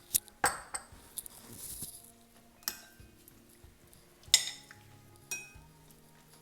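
Kitchen utensils clinking against dishes while salad ingredients are handled: about five sharp separate clinks with a short ring, the loudest about four and a half seconds in.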